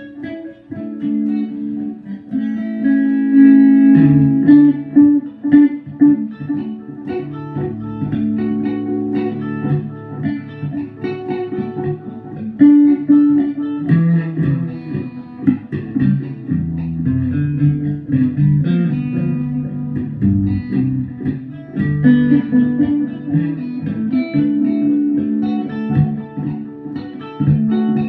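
Guitar music: a guitar picking a continuous run of single notes, with lower bass notes moving underneath.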